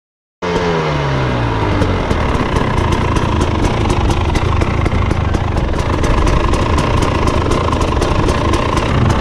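Dirt bike engine running, cutting in suddenly with the revs falling off to a steady idle within the first second, then idling with a fast, rough ticking.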